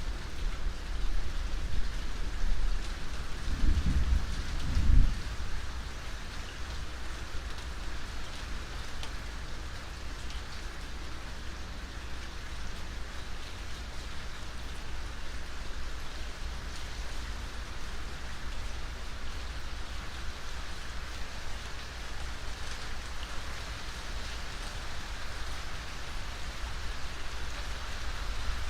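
Steady rain falling, with a low rumble of thunder in the first five seconds, loudest about four to five seconds in, then rain alone.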